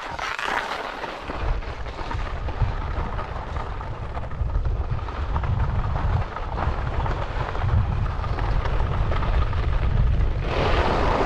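Heavy wind buffeting the microphone with a deep, steady rumble, over the hiss and scrape of sliding downhill on hard, icy, wind-packed snow. It starts abruptly and stays loud throughout.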